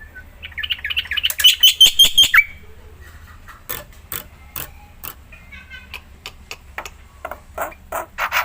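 Black-winged myna (jalak putih) in full song. A fast run of shrill chattering notes lasts about two seconds, followed by sharp clicks and a burst of harsh, rasping calls near the end.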